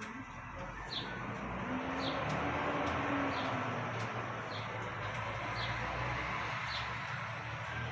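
Road traffic from a busy avenue, swelling as a vehicle passes a second or two in, while a small bird gives a short, high, falling chirp about once a second.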